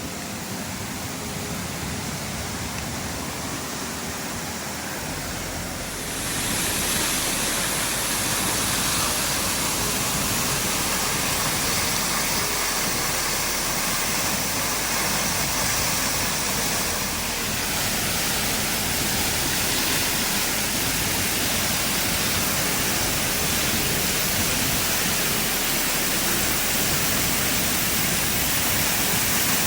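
Steady rushing of a waterfall cascading into a river, growing louder and brighter about six seconds in.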